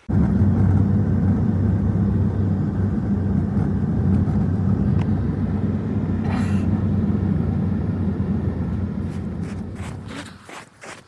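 An engine running steadily with a low hum that starts suddenly and fades out near the end.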